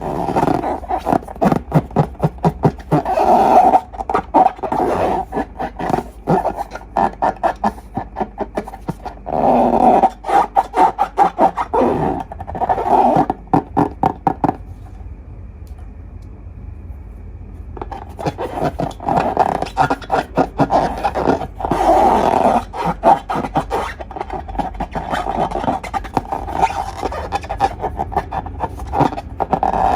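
Slime being squeezed and worked by hand, with rapid sticky squelches and crackling pops. The handling pauses about halfway through, then starts again a few seconds later.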